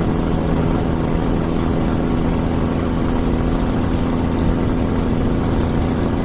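Heavy diesel truck engine running steadily at an even pitch, a loud low drone with a fine regular pulse.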